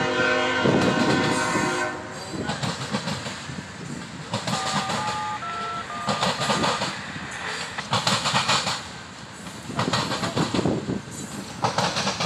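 Freight train passing: the locomotive's horn chord sounds and cuts off about two seconds in, then the cars roll by with loud bursts of wheel clatter as their wheels slam over the rail diamond. A few short high tones sound midway.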